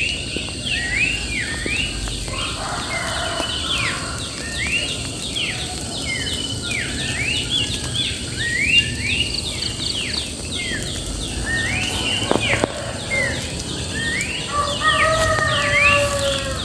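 Birds singing outdoors: many short, quickly repeated up-and-down chirping notes, with a longer, lower drawn-out call near the end, over a steady low background rumble.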